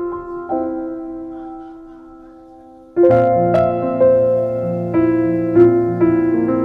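Gentle background piano music: a chord rings and fades, then a fuller passage with bass notes comes in about three seconds in.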